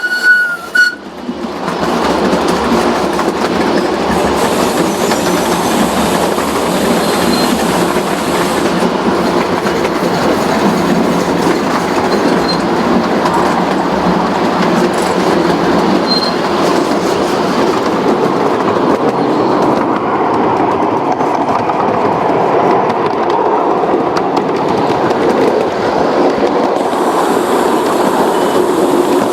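A train on the Portola Valley and Alpine Railroad running steadily along the track, with a continuous rolling rumble and the clickety-clack of wheels on rail. A high steady tone cuts off within the first second.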